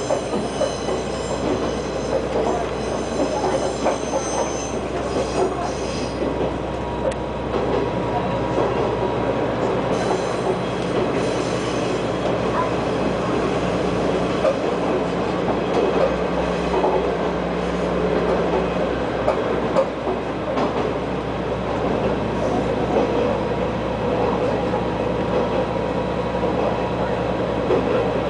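KiHa 120 diesel railcar running along the line: a steady diesel engine drone mixed with wheel and rail noise. A faint high wheel squeal is heard in the first few seconds.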